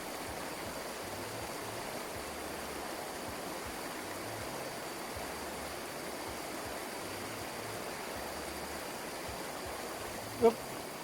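Steady rushing of flowing runoff water after heavy rain. A brief pitched call sounds near the end.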